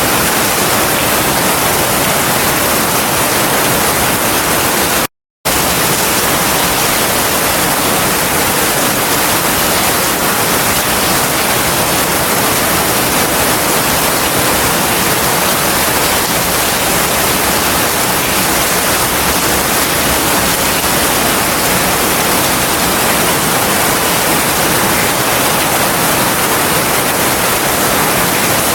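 Heavy rain falling steadily, a dense even hiss with no thunder. It cuts out completely for a fraction of a second about five seconds in.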